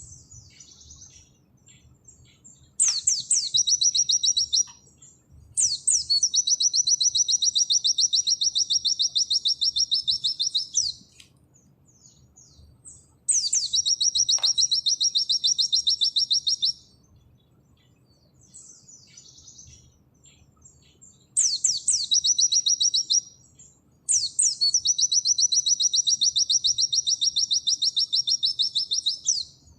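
Pleci (white-eye) singing its fast 'nembak' song: five loud, high, rapid trills, each opening with a couple of sharp down-slurred notes, the longest lasting about five seconds. Faint short chirps come in the gaps between them.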